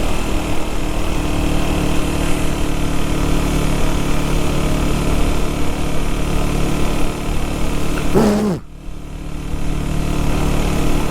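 Single-cylinder engine of a 2024 KTM Duke 390 motorcycle running steadily. About eight seconds in, a short tone slides sharply down in pitch and the sound suddenly dips for about a second before returning.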